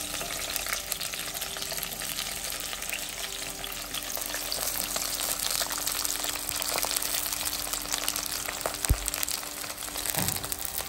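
Sliced eggplant frying in hot oil in a pot: a steady crackling sizzle, with one short low knock near the end.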